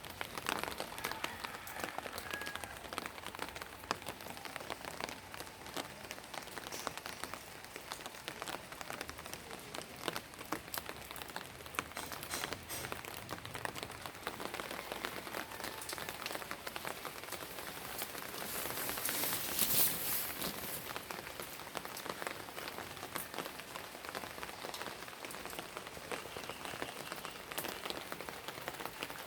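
Steady rain falling, with many small drops pattering on a hard surface. Near the middle it briefly swells louder.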